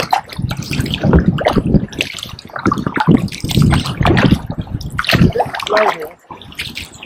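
Kayak paddle blades dipping into river water and splashing, with water running and dripping off the blades in uneven surges, stroke after stroke.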